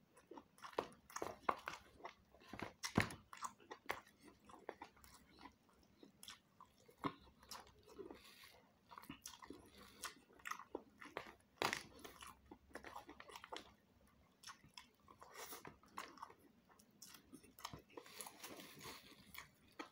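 Close-up chewing of a mouthful of rice and beef curry eaten by hand: irregular wet mouth clicks and smacks with occasional crunches.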